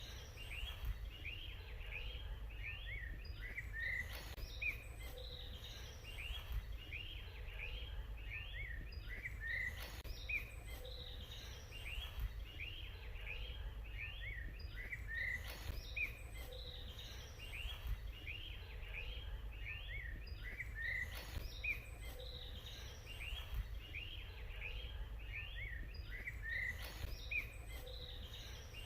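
Songbirds chirping: many short, high, quickly repeated chirps, several each second, over a steady low rumble.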